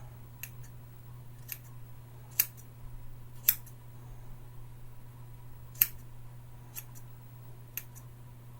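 Scissors snipping hair in separate cuts, about seven snips at uneven intervals with three louder ones, over a steady low hum.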